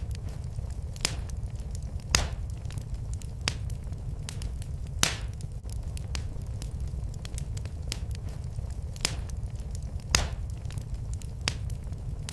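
Wood fire in a fireplace crackling, with a steady low rumble under irregular sharp pops and snaps, a few of them loud.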